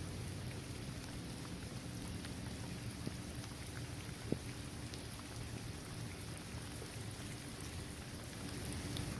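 Steady rain falling on a paved basketball court, trees and grass, with scattered individual drops ticking through it. One sharper drop stands out about four seconds in.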